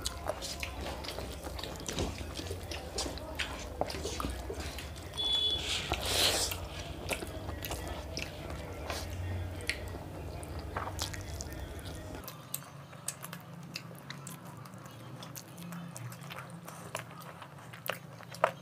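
Close-up eating sounds: people chewing and biting mouthfuls of fried rice and chicken curry, with many short wet mouth clicks and smacks. There is one louder burst of noise about six seconds in.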